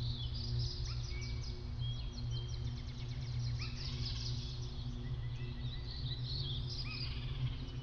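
Small birds chirping and twittering in many short, quick notes over a low, steady hum.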